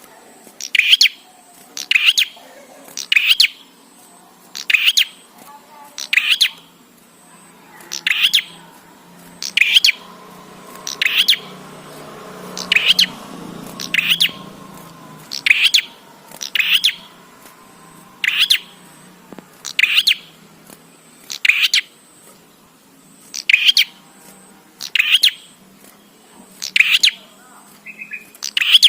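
A prenjak (prinia) calling repeatedly: short, sharp, high-pitched double chirps, about one every second and a half, loud and evenly spaced.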